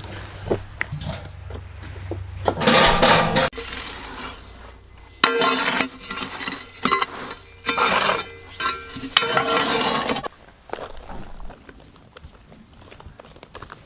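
Dishes and cutlery clinking and clattering as they are handled, in several bursts between about three and ten seconds in.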